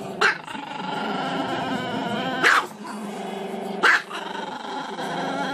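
Small black-and-tan dog howling with its muzzle raised: a long, wavering, drawn-out tone broken by three short, sharp barks, about a quarter second, two and a half and four seconds in.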